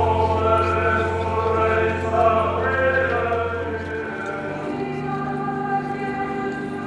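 A choir singing slowly over a held low bass note, which steps up to a higher note about four seconds in.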